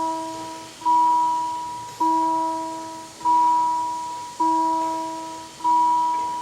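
Railway level-crossing warning bell ringing: single bell strikes about every 1.2 seconds, each ringing out and fading before the next.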